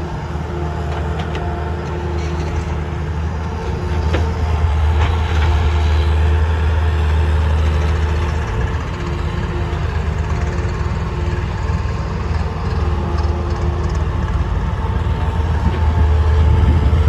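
Heavy diesel engines of a tractor and a JCB backhoe loader running steadily, with a couple of faint knocks a few seconds in.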